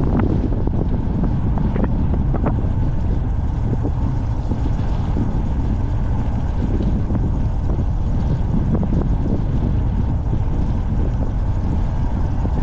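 Steady wind buffeting the microphone, a dense low rumble with a few faint knocks scattered through it.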